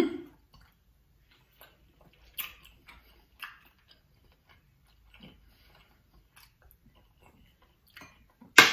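A person eating close to the microphone: soft chewing and mouth clicks with scattered small crackles, a sharp smack at the very start and a louder crackle near the end.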